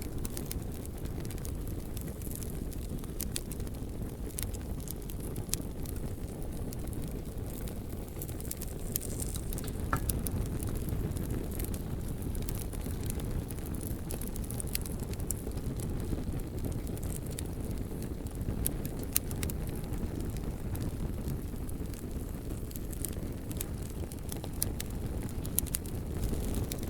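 Bonfire burning with a steady low roar, dotted with frequent small crackles and pops from the burning wood.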